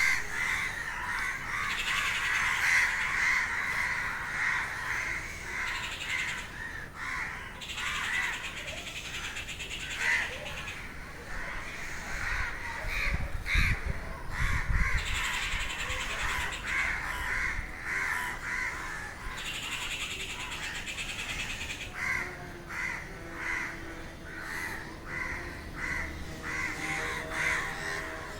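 Many crows cawing repeatedly and without a break, harsh calls overlapping in an agitated, restless chorus.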